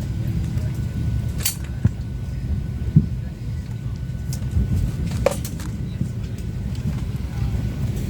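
Steady low rumble in a Boeing 737-800 cabin at the gate during boarding, with a few sharp clicks and knocks, the clearest about one and a half and five seconds in.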